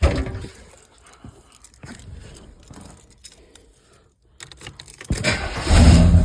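Keys jangling and clicking at the ignition after a knock, then the Chevy 350 small-block V8 cranks about five seconds in and catches, running loud and steady near the end: a cold start after sitting two or three days.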